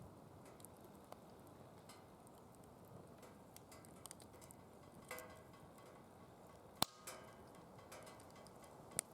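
Firewood burning quietly in a fire pit with a soft steady hiss, broken by scattered crackles and sharp pops. The loudest pop comes about seven seconds in, and another comes just before the end.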